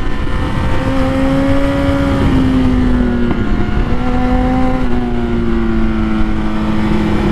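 Kawasaki Z800's inline-four engine running at fairly steady high revs, its pitch easing down and stepping a few times, over heavy wind rush on the microphone.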